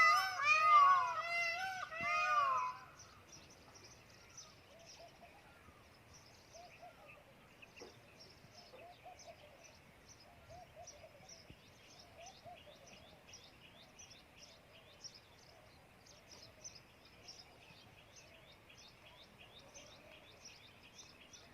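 Bird calls: a loud, repeated, arching call for the first few seconds, then faint background birdsong of short high chirps, about two a second, with a few softer lower calls.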